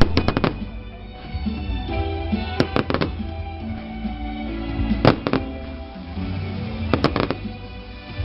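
Firecrackers going off in four quick clusters of sharp bangs, about two seconds apart, over music playing.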